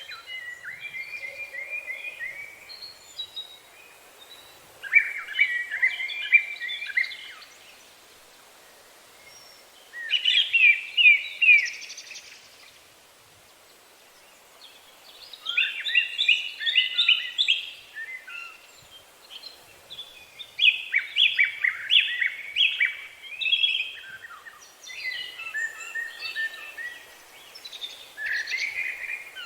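Songbirds singing in trilled phrases of rapidly repeated notes, each phrase lasting a few seconds, with short pauses between phrases.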